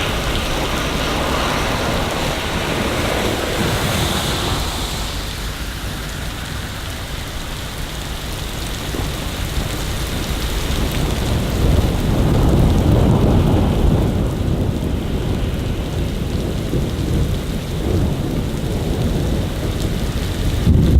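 Steady rain with a deep rumble of thunder building about halfway through and rolling on to the end.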